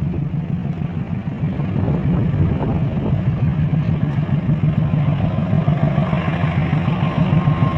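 Diesel locomotive engine running with a steady low rumble, getting a little louder about two seconds in; a faint steady high tone comes in near the end.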